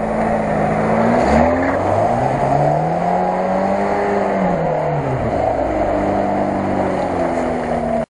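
Lada Niva's four-cylinder petrol engine revving hard under load with its wheels spinning in deep mud. The revs climb for a few seconds, fall back about five seconds in, then hold steady.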